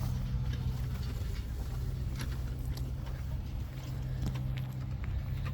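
Tractor engine idling steadily, with a few light clicks and knocks over it.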